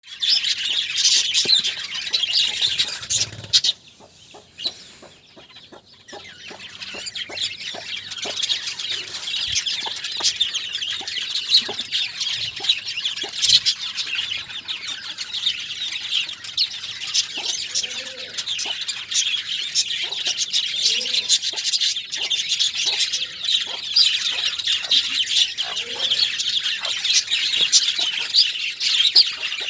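A flock of budgerigars chattering and chirping continuously, a dense, rapid twittering that drops away briefly about four seconds in before picking up again.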